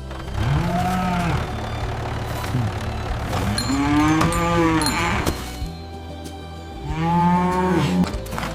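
A cow mooing three times, each call rising and then falling in pitch.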